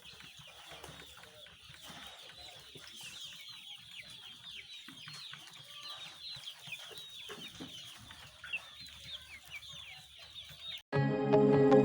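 A large flock of eight-week-old chickens peeping, with many short falling chirps overlapping throughout. Background music cuts in abruptly near the end.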